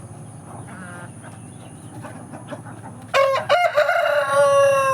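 A rooster crows loudly about three seconds in: one long crow that drops in pitch as it trails off at the end. Before it there are only faint, scattered chicken calls.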